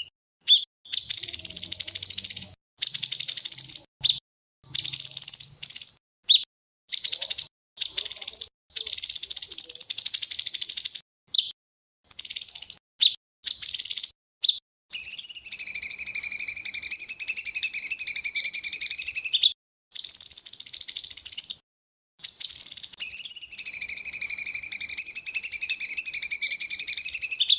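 A songbird's rapid-fire trilling song, the 'tembakan' type used in bird-song masters. It comes in short bursts that stop abruptly with silent gaps between them, then in two long unbroken trills of several seconds each, the first starting about 15 seconds in and the second about 22 seconds in.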